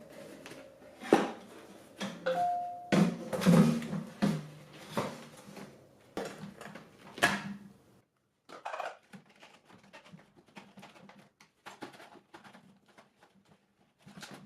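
Hard plastic and metal parts of a wet/dry vacuum being handled and fitted together: a run of clicks and knocks, then fainter small ticks and rustles over the second half, with a brief ringing tone about two seconds in.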